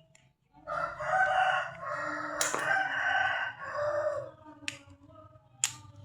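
A rooster crowing once in a long, loud call of about three and a half seconds, with a sharp click partway through and two more sharp clicks near the end.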